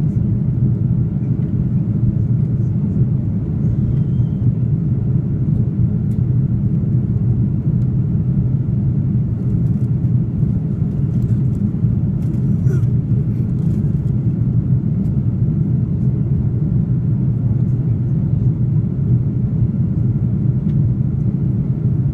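Steady low rumble of an Airbus A330-300's engines and airflow heard inside the passenger cabin, holding at an even level, with a few faint ticks near the middle.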